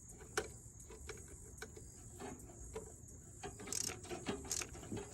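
Scattered light clicks and metallic taps from hand tools working a fuel-line hose clamp, a few spread out at first and then coming quicker near the end.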